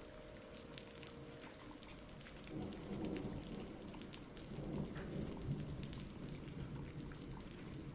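Steady rain with many single drops hitting a surface, and a low thunder rumble that swells twice, about two and a half seconds in and again around five seconds in.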